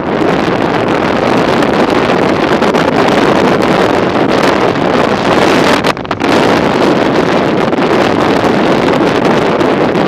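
Loud, steady wind rushing over the microphone of a camera riding along on a moving bicycle, with a brief dip about six seconds in.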